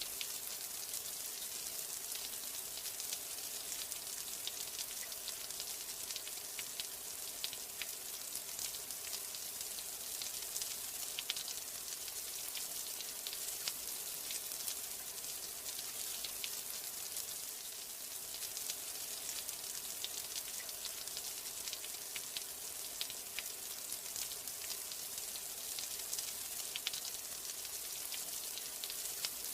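Steady rain: a dense, even hiss with many small, sharp drop ticks scattered through it.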